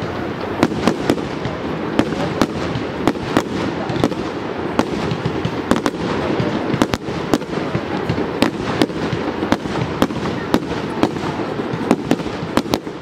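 Aerial fireworks display: shells bursting in quick, uneven succession, two or three sharp bangs a second over a continuous crackle.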